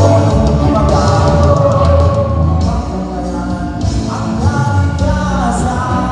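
Band playing a rock song over a PA system, with a sung lead vocal over bass and drums.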